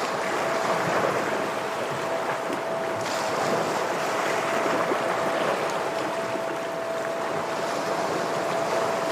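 Ocean waves washing against shore rocks, an even, continuous rush of surf, with a thin steady whine sounding above it.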